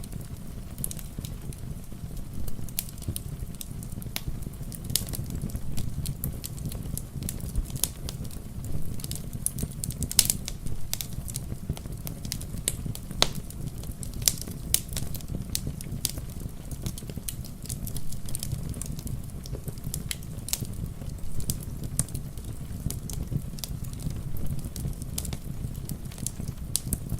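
Wood fire crackling, with irregular sharp pops and snaps over a low steady rumble, mixed with the steady patter of rain.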